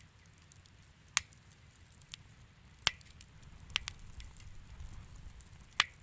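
Wood fire in a fireplace crackling over a low steady rumble, with four sharp pops and scattered fainter ticks.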